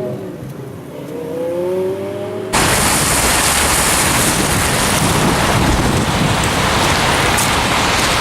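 A car engine accelerating, its pitch rising in short climbs, then a sudden cut about two and a half seconds in to a loud, steady rush of noise.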